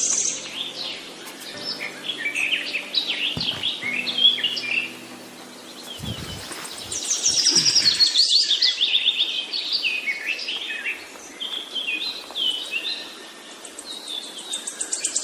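Several wild birds chirping and singing in quick runs of short notes, the loudest run about halfway through, with a few dull thumps around the same time.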